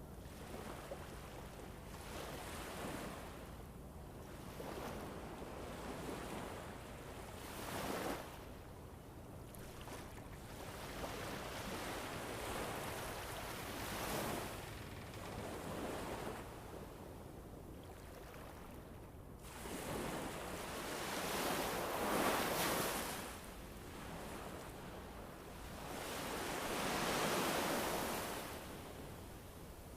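Ambient winter wind recording, a rushing noise that swells and fades in slow gusts, the strongest near the end.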